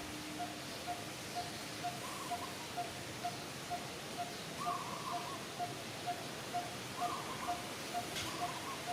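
A bird repeating a short, identical note at a steady pace of about two a second, with other short wavering calls every couple of seconds over a constant hiss.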